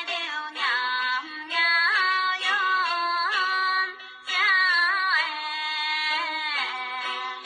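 Music: a high voice sings a slow Dong folk melody in long, wavering, ornamented notes, with short breaks between phrases.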